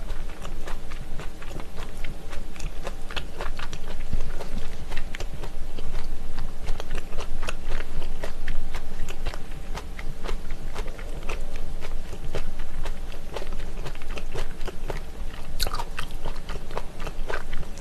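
Close-miked chewing and biting of spicy pressed chicken-feet meat (dakbal pyeonyuk): dense, irregular crackles of a chewy collagen-rich slab, with small crunches of cartilage bits. One sharper click near the end.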